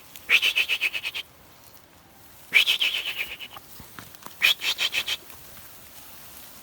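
Goat bleating three times, each a quavering bleat about a second long.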